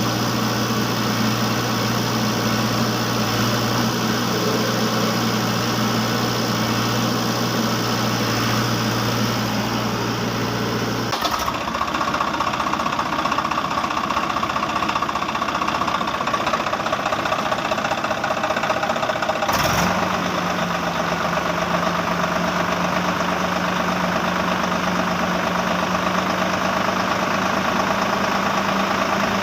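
A vehicle engine sound running steadily at idle, with a low hum and a faint knocking. It changes abruptly twice, about 11 and 19.5 seconds in, each time settling into a steady hum of a different pitch.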